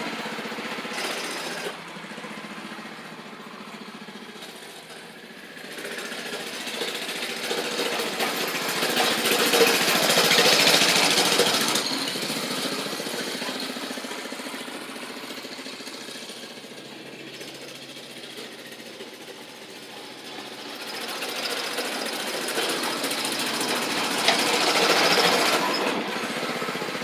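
Mini bike's small pull-start engine running, swelling loud about ten seconds in and again near the end and fading in between, as the bike rides past and away from the camera.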